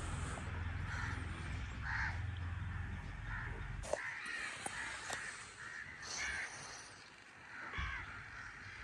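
Crows cawing repeatedly, a string of short calls, over a low rumble that drops away about halfway through.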